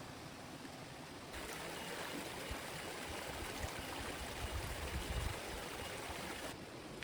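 Steady rush of heavy rain and flowing water. It steps up louder abruptly about a second in and drops back near the end, with a low rumble around five seconds in.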